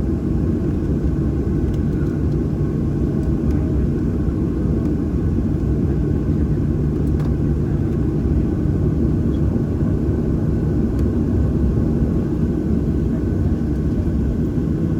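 Steady cabin rumble of a Boeing 737-800 with its CFM56-7B engines running, heard from inside the cabin, with a few faint steady tones over the low drone.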